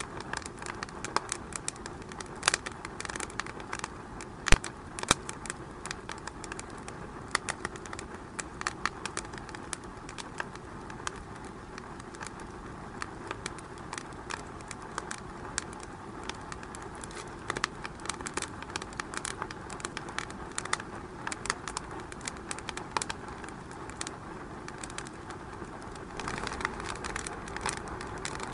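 Wood fire in a fireplace crackling: irregular sharp pops and snaps over a steady hiss, with the loudest pop about four and a half seconds in.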